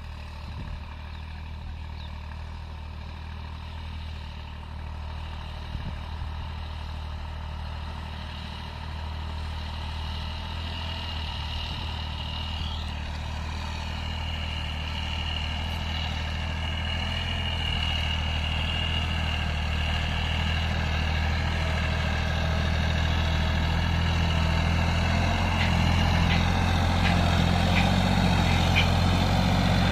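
Massey Ferguson 9500 tractor engine running steadily while pulling a cultivator, growing gradually louder.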